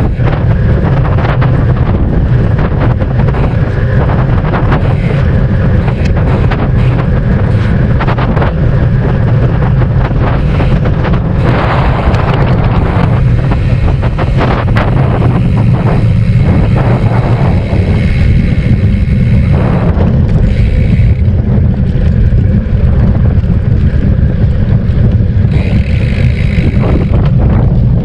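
Wind buffeting the microphone of a cyclist riding at speed: a loud, steady low rumble with no let-up.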